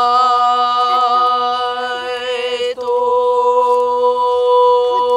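A voice chanting one long sustained note, wavering slightly, then settling onto a steadier held tone about three seconds in, over a faint low steady hum.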